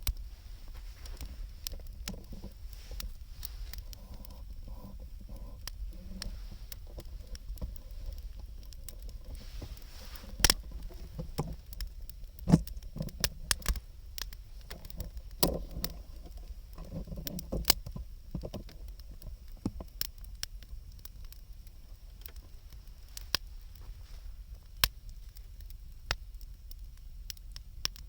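Wood fire burning, crackling with scattered sharp pops of varied loudness over a steady low rumble; the pops come thicker and louder in the middle.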